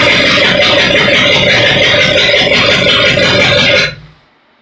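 Shelby GT500's V8 engine running loud and steady, with rapid low pulsing, then cutting off sharply about four seconds in.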